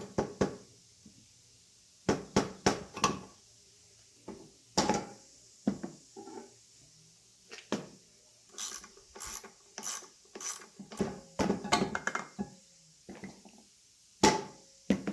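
Hand work on a car engine's air filter assembly: a run of irregular metal clicks, knocks and rattles as the stuck-together parts are handled and worked loose, busiest in the second half, with a sharp knock near the end.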